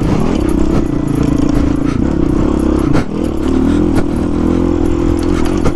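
Honda CRF450 dirt bike's single-cylinder four-stroke engine running under throttle on the trail, its pitch dipping and climbing again several times as the throttle is rolled off and on. Two sharp knocks come through, one about halfway and one near the end.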